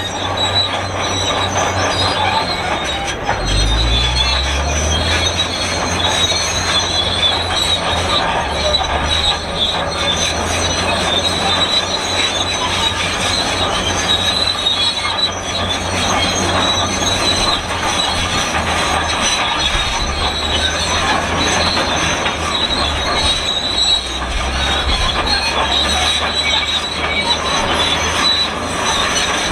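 Shantui SD32 crawler bulldozer's undercarriage squealing and screeching as it moves, a loud, continuous metallic squeak over its diesel engine running, with the engine note shifting about three to five seconds in.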